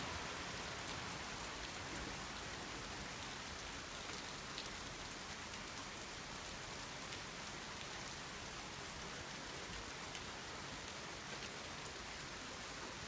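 Steady rain falling from a thunderstorm, with scattered individual drops ticking.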